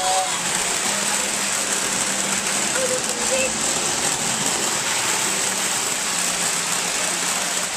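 Model train running on its track, a steady mechanical running noise.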